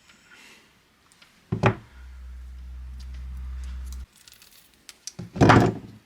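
Two dull thumps, one about a second and a half in and a louder one near the end, with a low steady hum between the first thump and about four seconds in that cuts off suddenly.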